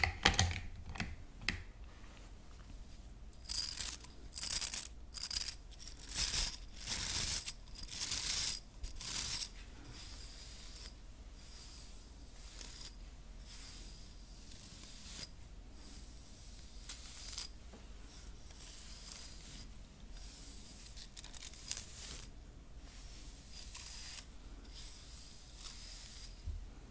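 Hairbrush bristles brushed and scratched: a few sharp taps at the start, then a run of brisk scratchy strokes about half a second each, followed by fainter, sparser strokes.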